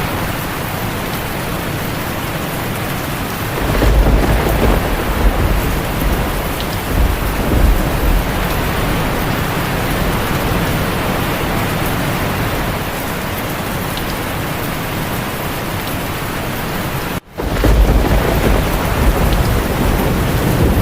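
Steady heavy rain with rolling thunder. A deep rumble swells about four seconds in and fades over several seconds. Another rumble comes in right after a split-second break in the sound near the end.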